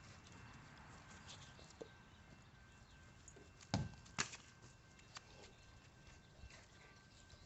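Faint scattered taps of a dog's paws on a hard surface, with two sharp knocks in quick succession near the middle.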